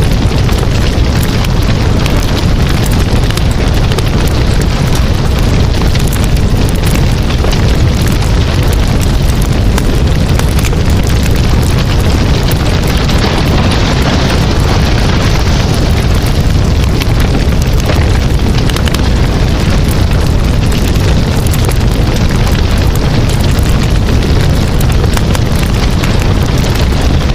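Campfire burning, with dense crackling and popping over a heavy, steady low rumble.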